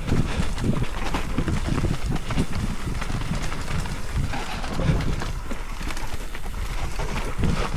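Mountain bike jolting and rattling over rough ground: a dense, irregular run of low knocks and bumps, with wind on the microphone.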